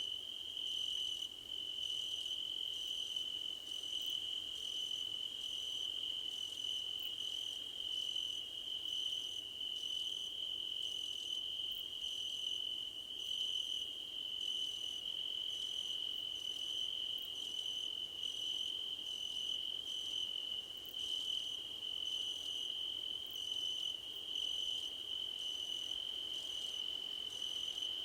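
Crickets singing in grass: one steady, unbroken high trill, with a second, higher chirping that pulses evenly about one and a half times a second.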